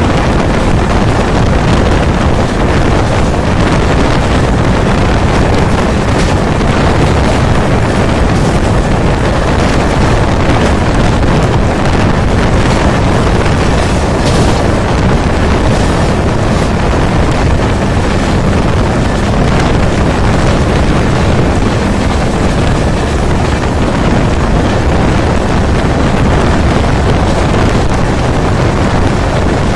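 Wind rushing past the open window of an express passenger train coach at high speed, buffeting the microphone over the steady rumble of wheels on rails. About halfway through there is a brief sharper noise as the coach runs over pointwork.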